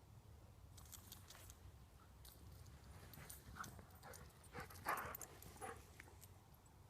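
A dog making small faint sounds: scattered clicks and short scratchy noises, with a cluster of brief sounds that is loudest about five seconds in.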